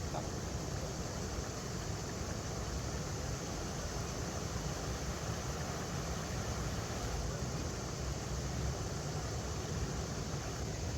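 River water running steadily over rocks, a continuous even rushing.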